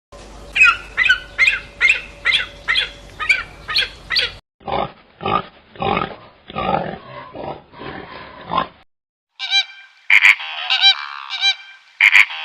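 Animal calls in three runs, one after another. First comes a run of about nine quick, high calls, about two a second. Then a run of lower, rougher calls at about the same pace. Near the end there are several loud, higher-pitched calls.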